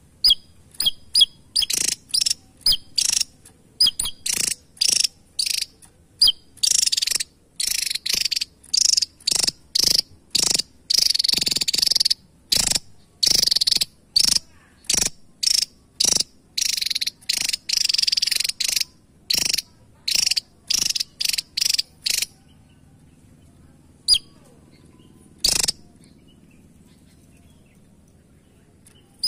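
Javan tesia singing: quick, sharp, high-pitched notes run into dense, jumbled twittering phrases, then the song breaks off for several seconds, interrupted by two single notes.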